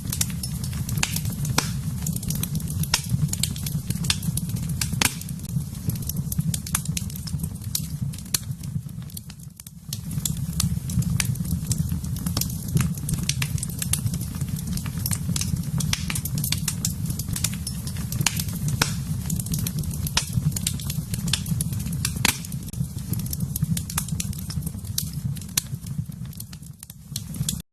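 Wood fire burning in a fireplace: a steady low rumble of flames with frequent sharp crackles and pops. The sound dips briefly about ten seconds in and stops abruptly near the end.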